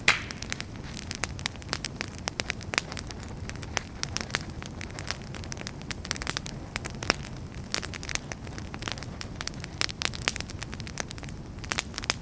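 Wood fire burning, crackling with many sharp irregular pops over a steady low rumble of flames, with one especially loud pop right at the start.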